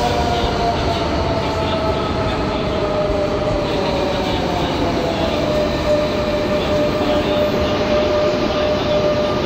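Renfe Class 447 Rodalies electric multiple units rolling in along an underground platform and slowing. Steady wheel-on-rail rumble carries under a motor whine that falls slowly in pitch as the train brakes.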